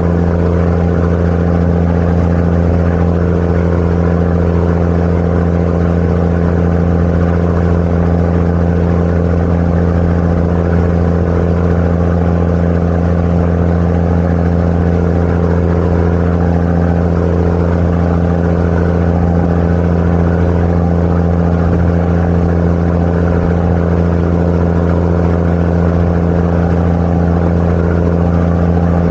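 Sightseeing boat's engine running steadily, heard on board as an unchanging low hum.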